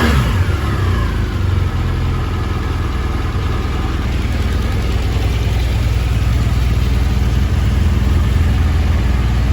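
A motor vehicle engine passes at the start, its pitch falling away. A steady low engine rumble follows, as of an engine idling.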